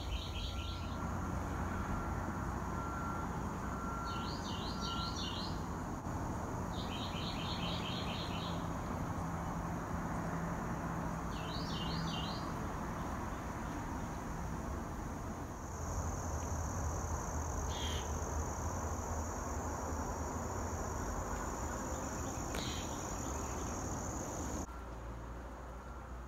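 Outdoor ambience: a bird sings four short bursts of rapid chirping notes in the first half, over a steady high-pitched insect drone that grows louder about two-thirds of the way through, with a constant noisy rush underneath.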